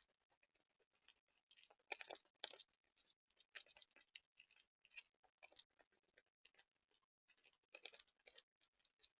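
Animals feeding at a seed feeder: faint, irregular scratching and crunching in short bursts, a few each second.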